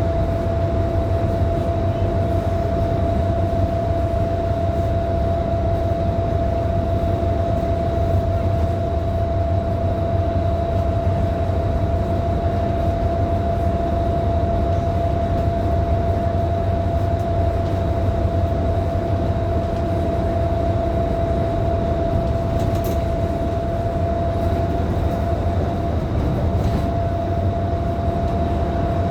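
Scania K310IB bus running steadily on the road, heard from inside the cabin: a low engine and drivetrain rumble with road noise and a steady high whine over it.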